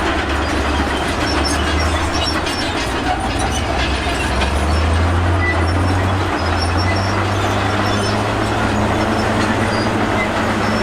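Crawler bulldozer's diesel engine running steadily, with a constant clatter and high squeaks from its steel tracks.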